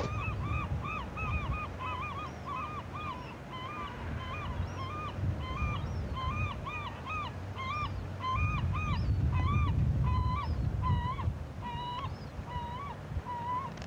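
A bird calling over and over, short rising-and-falling notes at about three a second, thinning out toward the end. Underneath is a low rumble, loudest a little past the middle.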